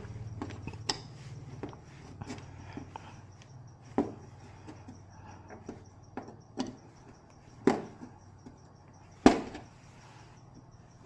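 Irregular clicks and knocks of tools and parts being handled during TV repair work, the loudest three coming about four, eight and nine seconds in. A low hum fades out about two seconds in, under a faint steady high whine.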